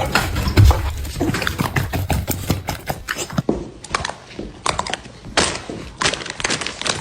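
A rapid, irregular series of thumps and knocks, heaviest in the first three seconds, with an abrupt change in sound about three and a half seconds in.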